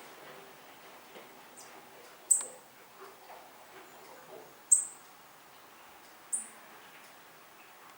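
A bird giving single short, very high-pitched call notes: three clear ones about two seconds apart, with a fainter note just before them.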